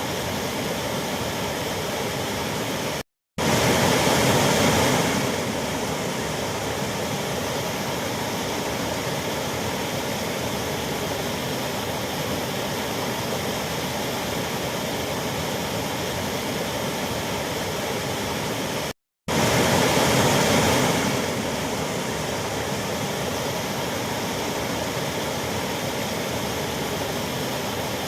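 Waterfall rushing steadily. It cuts out for a split second twice, about three seconds in and about nineteen seconds in, and comes back louder for a couple of seconds each time before settling.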